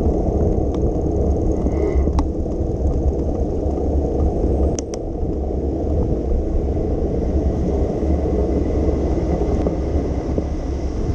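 Steady low rumble of a bicycle ride on wet city streets: wind on the microphone and tyre noise on wet pavement, with a few faint clicks about two and five seconds in.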